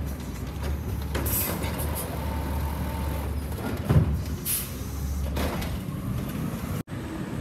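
CNG Peterbilt garbage truck's engine running with a steady low drone, with short air hisses about a second in and again about four and a half seconds in, and a thump about four seconds in.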